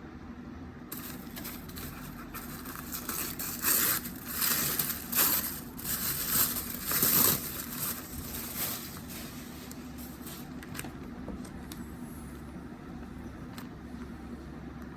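Packaging being handled and unwrapped, with bursts of crinkling and scraping over the first eight seconds or so, then quieter handling with a few light clicks.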